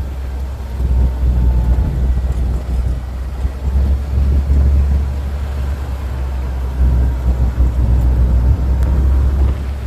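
Low, uneven rumble of a vehicle in motion.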